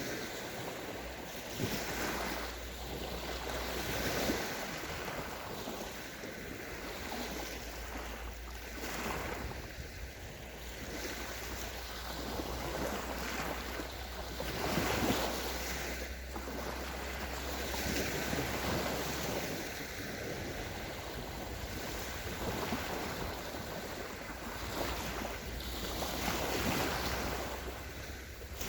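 Small sea waves breaking and washing up a sandy shore, the surge swelling and ebbing every few seconds. A low wind rumble on the microphone comes and goes underneath.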